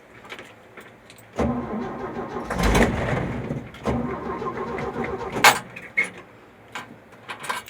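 1966 Chevy C10's 250 inline-six being cranked by the starter for about four seconds and not catching, which the owner puts down to the truck being out of gas.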